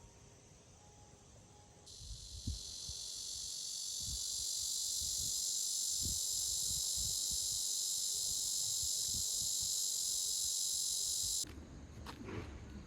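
A cicada singing: a loud, steady, high-pitched buzz that starts about two seconds in, swells over the next few seconds, then cuts off suddenly near the end.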